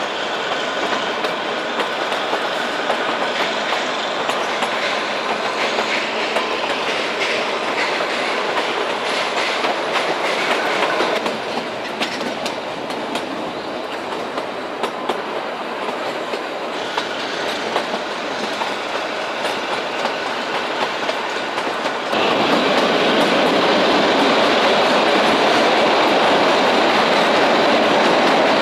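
Kalka–Shimla narrow-gauge toy train coaches running on the rails, heard from an open window: a steady rumble and rattle of wheels with small clicks. About three-quarters through, the sound jumps suddenly louder and fuller as the train runs into a tunnel.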